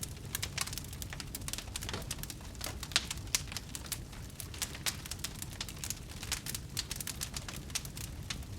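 Wood fire burning with dense, irregular crackling and popping over a low steady rumble, with a couple of louder pops about three seconds in.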